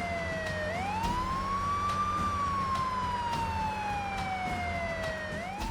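Emergency vehicle siren in a slow wail: the pitch falls, climbs over about a second and a half, then slides down slowly for about three seconds and starts climbing again near the end, over a steady low engine hum.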